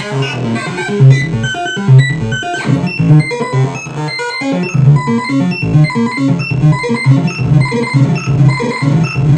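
Modular synthesizer playing a sequenced lead line of short, repeating notes over a low bass pitch, with an FM oscillator run through distortion and echo. A rising sweep cuts through about two and a half seconds in.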